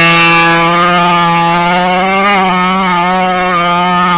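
HPI Baja 5B RC car's small two-stroke engine with a Jet Pro tuned-pipe exhaust, held at high revs. It gives one steady, high engine note that wavers slightly in pitch.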